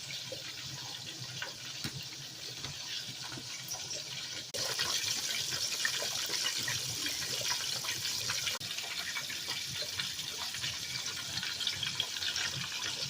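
Chicken frying in hot oil: a steady sizzle with scattered crackles and pops, louder in the middle stretch where the audio is cut between takes.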